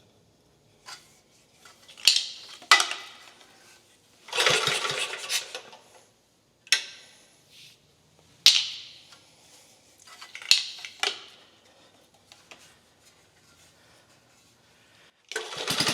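Scattered sharp metallic clanks and clinks of tools and engine parts being handled, with a longer rattling scrape about four seconds in.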